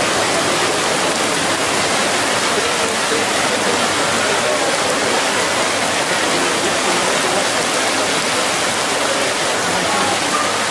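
Heavy rain falling steadily, an even loud hiss with no let-up.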